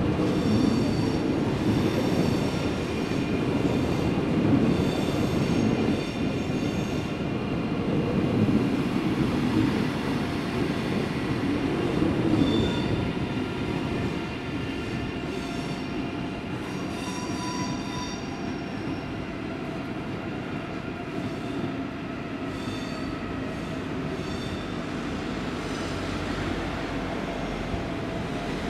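ICE high-speed train rolling past on the tracks, with a high thin wheel squeal coming and going. The rolling noise is loudest for the first half and eases off to a quieter steady rumble after about thirteen seconds.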